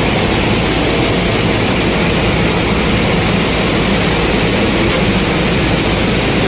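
Combine harvester running steadily while harvesting corn: a loud, even engine and machinery drone.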